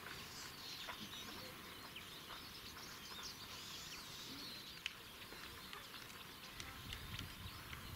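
Faint outdoor ambience with small birds chirping now and then in short high notes. A single sharp click about five seconds in, and a low rumble comes in near the end.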